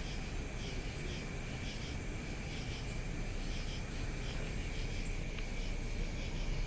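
Steady low rumble of vehicles idling, with a constant thin high tone and faint repeated chirps above it.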